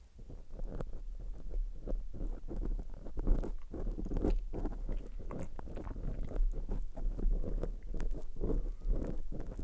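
Wet mouth and tongue sounds close against an ASMR microphone, of the mic-licking kind: a dense, irregular run of smacks and clicks. A low rumble runs underneath from about half a second in.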